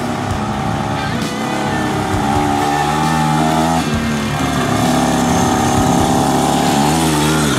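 Pocket bike's small engine revving as it rides up closer: the pitch climbs, falls back about four seconds in, climbs again and falls near the end, and the sound grows louder throughout.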